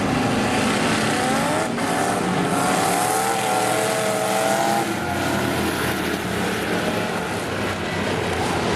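Demo race cars running around a speedway oval, several engines at high revs, with their pitch rising and falling as they accelerate and lift.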